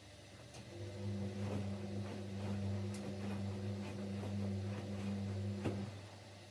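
Siemens Siwamat Plus 574 washing machine turning its drum during the rinse with fabric softener: the motor hums from about a second in until near the end, then stops. Light clicks and knocks of the tumbling wash go with it, one sharper knock just before it stops.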